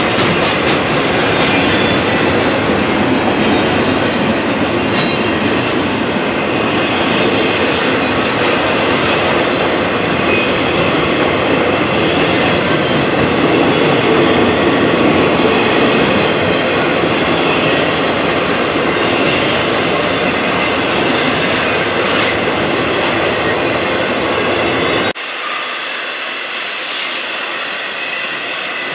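Freight train rolling past, its steel wheels giving a steady loud rumble on the rails with some high wheel squeal. Near the end the sound drops suddenly to a quieter rolling noise.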